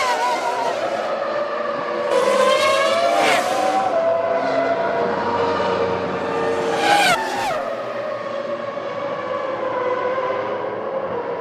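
Formula One cars' V10 engines running at high revs as they pass, the engine note sweeping up and down. One car's pitch drops sharply as it goes by about seven seconds in.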